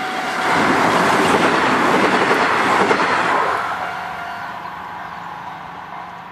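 Kintetsu electric train passing a level crossing: a rush of wheel and track noise that swells within the first second, stays loud for about three seconds, then fades as the train moves away.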